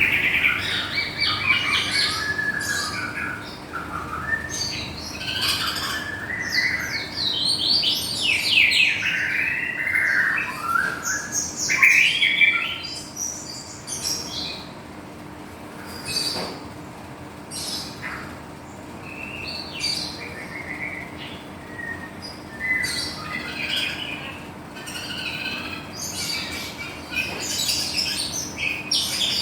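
White-rumped shama (murai batu, Medan type) singing a long, varied song of whistles, sweeping notes and rapid warbles, thinning to sparser phrases about halfway through before picking up again. A faint steady low hum runs underneath.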